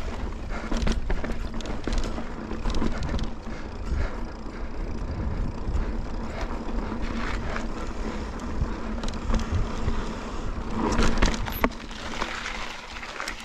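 Mountain bike rolling over slickrock: tyre noise on the rock with frequent rattles and knocks from the bike, over a low rumble of wind on the microphone. It gets louder for a moment about eleven seconds in.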